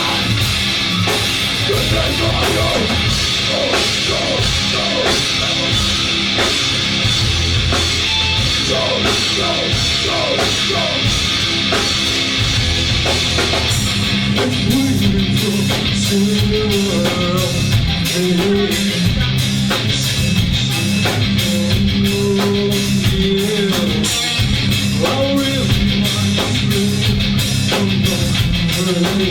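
Live rock band playing loud, with a busy drum kit and electric guitar; a melody line comes in about halfway.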